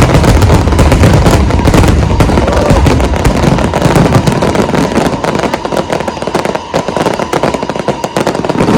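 Fireworks display: a loud, dense run of rapid crackling bursts over deep booms, the booms thinning out over the last few seconds while the crackling goes on.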